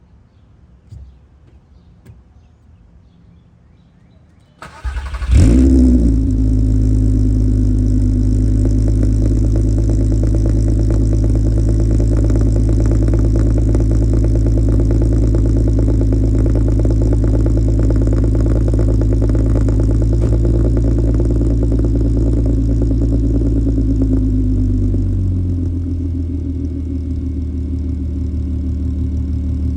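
2003 Volkswagen Jetta GLI engine cold-starting: a brief crank about five seconds in, catching with a quick rev flare, then a steady fast cold idle. Near the end the idle drops and settles to a lower, quieter speed as the cold-start high idle comes down.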